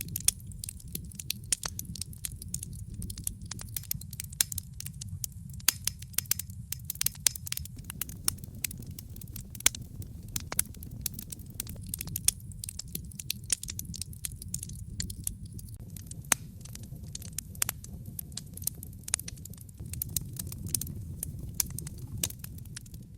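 Wood fire crackling and popping in a fireplace: many irregular sharp snaps over a steady low rumble of the flames.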